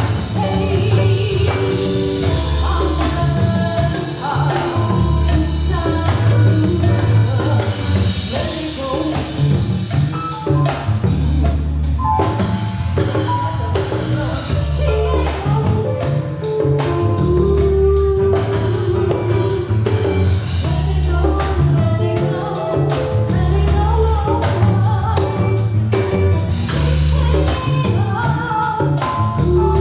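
A live band playing a song, with a sung vocal over a steady pulsing bass and drums.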